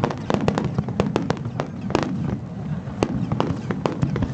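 Fireworks display: many sharp pops and bangs in quick, irregular succession, several a second, over a steady low rumble.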